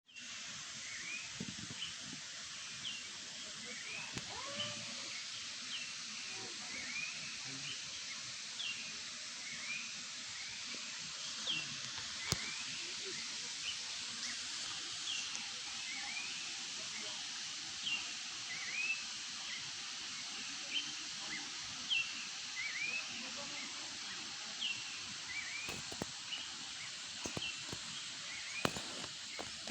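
Birds calling back and forth, short sweeping chirps repeating about once a second over a steady high hiss.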